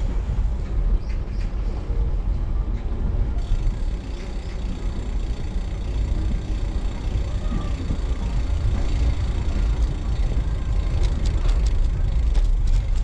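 Steady low rumble of wind buffeting the microphone while riding a road bike, with a few sharp ticks near the end.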